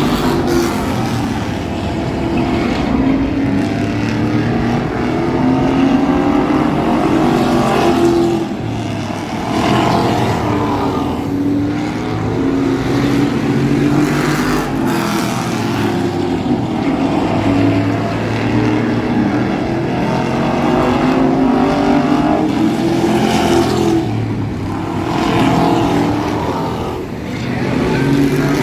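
Thunder Truck race engine running hard around an oval track, its pitch rising on acceleration and dropping off every few seconds as it lifts for the corners.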